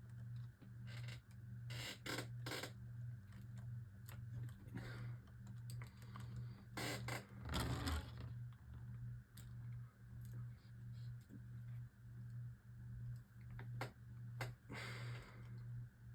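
Scattered light clicks and taps, with a louder rustle or scrape about seven seconds in, over a low hum that pulses about one and a half times a second.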